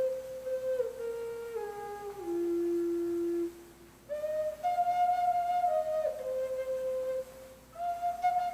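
Native American flute playing a slow melody of held notes that step downward. There are two short breath pauses, and each new phrase starts higher than the last one ended.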